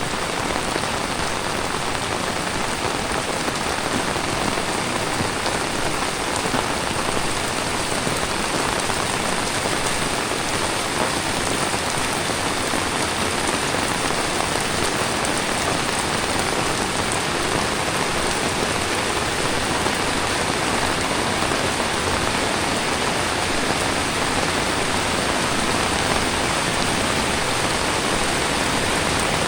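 Heavy tropical rain falling steadily, a dense even hiss of rain striking surfaces all around.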